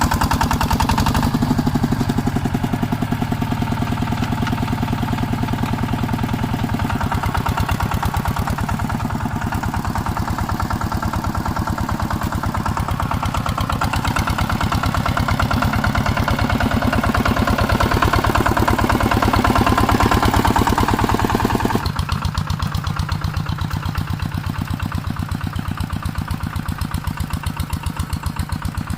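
Two-wheel walking tractor's engine running steadily with a rapid, even chugging. About three-quarters of the way through, the sound drops suddenly and becomes quieter and duller.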